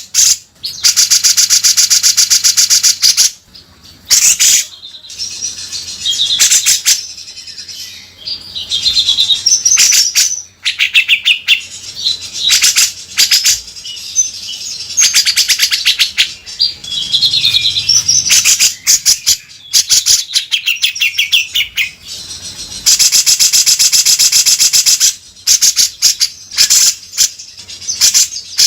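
Cucak jenggot (grey-cheeked bulbul) singing loudly in harsh, rapid rattling 'beset' phrases. The long fast rattles alternate with shorter whistled notes.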